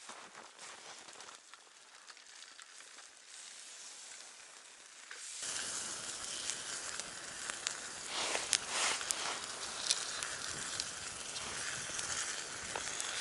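Campfire burning with a steady hiss and scattered crackles and pops, growing suddenly louder and fuller about five seconds in.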